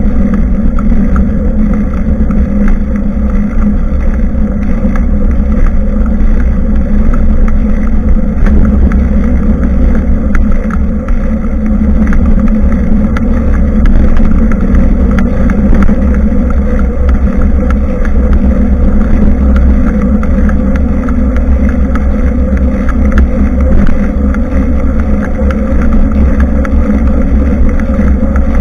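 Wind buffeting the microphone of a bicycle-mounted action camera while riding, a loud steady rumble with tyre and road noise underneath.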